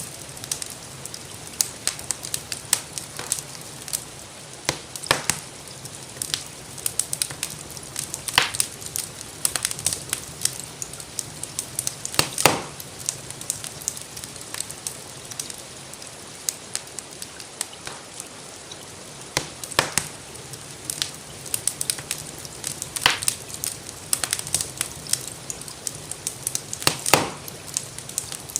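Wood fire in a fireplace crackling, with irregular pops, a few of them louder, over a steady hiss of rain.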